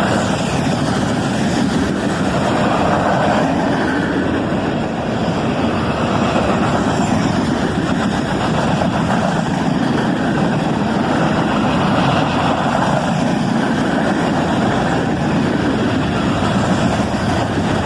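Freight train's cars rolling past close by: a steady, unbroken noise of steel wheels on rail.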